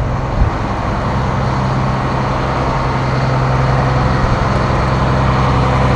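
2006 Blue Bird All American school bus engine idling with a steady, even low drone.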